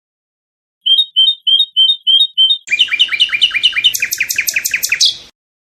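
Nightingale singing: a series of about seven repeated chirping notes, then a faster run of sweeping notes that stops abruptly.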